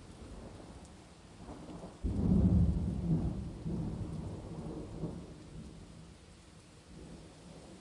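A clap of thunder breaks suddenly about two seconds in and rolls off in a low rumble over several seconds, over steady rain.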